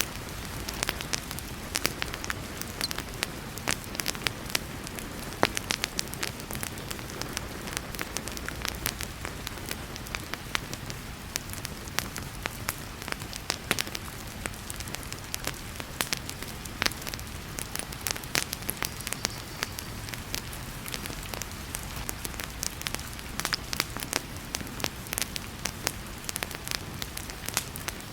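Wood fire in a fireplace crackling, with frequent irregular sharp pops, over the steady hiss of heavy rain.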